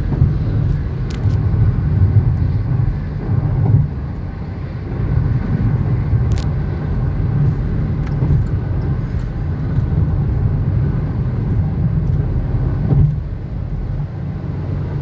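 Steady low rumble of a car driving, engine and tyre noise heard from inside the cabin, with a few brief clicks.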